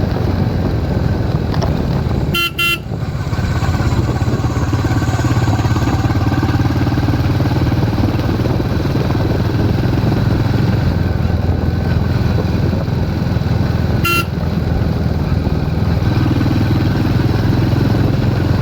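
Royal Enfield Hunter 350's 349 cc single-cylinder engine running at a steady pace. A horn gives two short beeps about two and a half seconds in and one more beep about fourteen seconds in.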